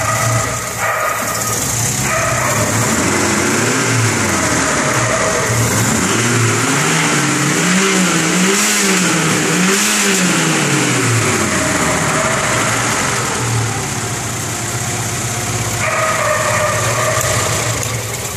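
1974 BMW 2002 tii's fuel-injected four-cylinder engine idling, blipped once about four seconds in, then revved up and down in several quick blips around the middle before settling back to a steady idle.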